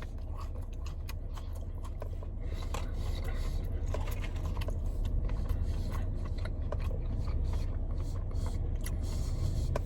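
A person chewing crunchy fried chicken nuggets close to the microphone, with many faint crunching clicks, over a steady low rumble.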